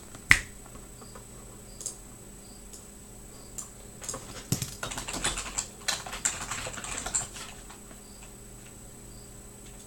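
Light clicks and clatter, like keys being typed, with a denser run of them in the middle, over a faint steady high whine.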